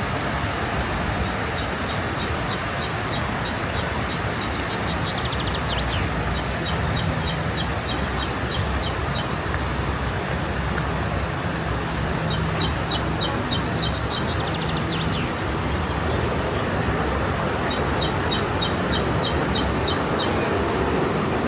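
Steady rush of flowing water from a river or waterfall, with a small songbird singing a short high phrase of rapid, evenly spaced notes four times over it.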